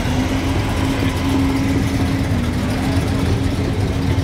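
A car engine running steadily: a low rumble with a steady hum above it, and no rise or fall in revs.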